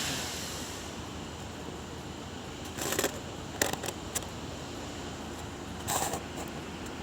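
Steady background noise with a few short knocks and rustles, a brief cluster about three seconds in, two single clicks soon after, and another near the end.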